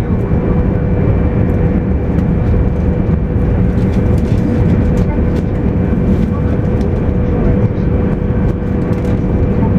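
Cabin noise inside a JR East 200 series Shinkansen running along the line: a steady, even rumble of wheels and running gear with a constant hum-like tone above it.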